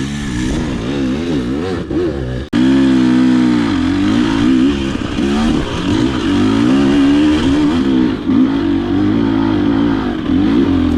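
Yuki Z300 enduro motorcycle engine running with the throttle constantly opening and closing, its revs rising and falling. About two and a half seconds in the sound drops out for an instant, then comes back louder and steadier.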